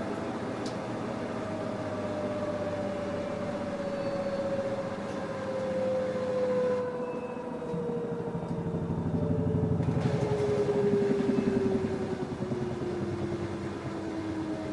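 LG F10A8HDS5 front-loading washing machine slowing down from a spin: a motor whine falls steadily in pitch, with a low throbbing rumble from the drum swelling in the middle.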